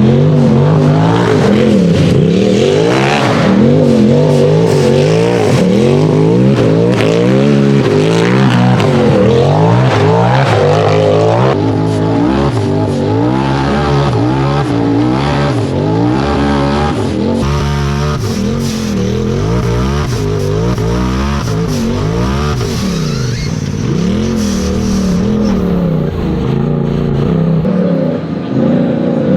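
Turbocharged Polaris RZR buggy engine revving hard under load on a hill climb, its pitch swinging up and down again and again as the throttle is worked. The engine eases off near the end.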